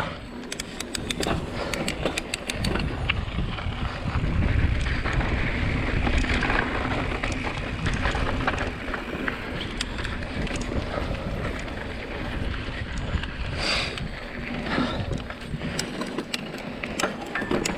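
Mountain bike riding down a dirt trail: wind rushing over the camera microphone, with the bike rattling and clicking over bumps.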